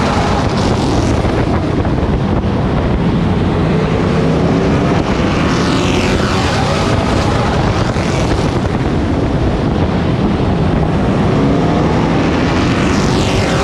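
Race truck engine heard on board at racing speed, its pitch dropping as the driver lifts for the corners (about six seconds in and again near the end) and climbing back up on the straights, with wind rushing over the microphone.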